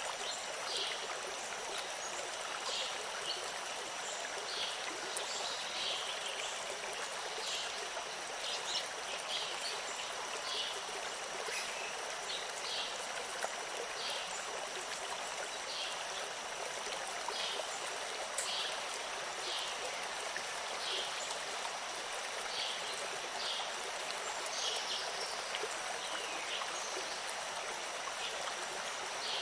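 Stream water flowing steadily. Short high-pitched chirps come every second or so, over a faint steady high whine.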